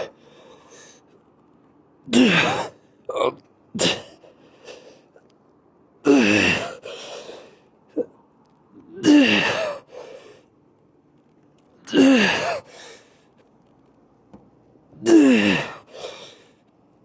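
A person's harsh, breathy outbursts, five main ones about three seconds apart, each under a second and falling in pitch, with a few shorter ones between them.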